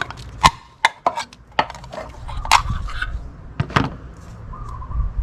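A can of engine oil treatment and the filler funnel being handled: a series of sharp, irregular clicks and knocks, about seven strong ones.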